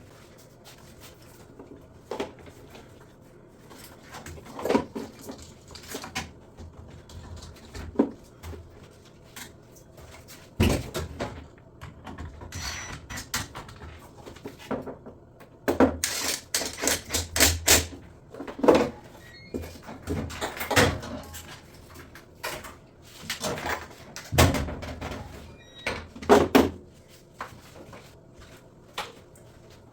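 Irregular knocks, clicks and clatters of drum washing machine parts being handled and fitted during reassembly, sparse at first and coming thick and loud in the second half.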